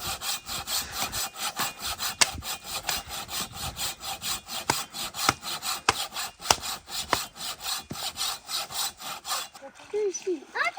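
Rhythmic scraping strokes, about three a second, that stop about a second before the end.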